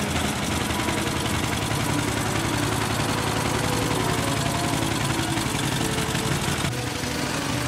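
A veteran car's engine running with a fast, even beat.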